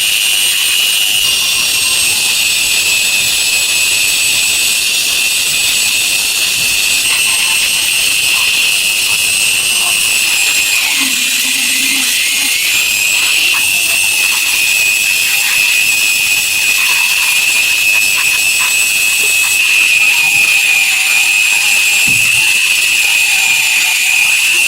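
Power tool running steadily at high speed: a high whine over a constant hiss, as in rust and dirt removal on metal.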